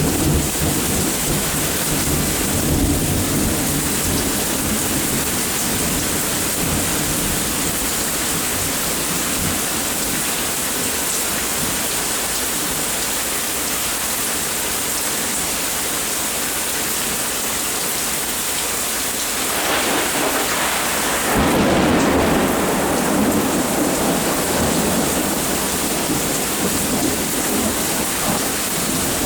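Steady rain falling, with rolling thunder: a low rumble at the start, then a louder peal that swells up about twenty seconds in and rumbles on to the end.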